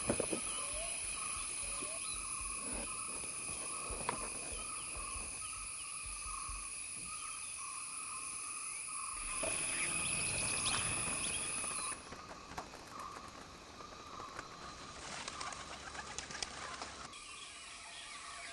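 Outdoor nature ambience: birds chirping over a steady high-pitched background drone, with the sound changing abruptly several times as one recording gives way to another.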